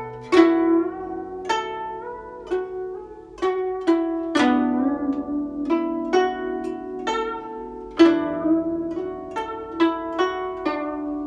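Guzheng played slowly: single plucked notes and a few octaves, each ringing and fading, some bent in pitch by the left hand pressing the string behind the bridge.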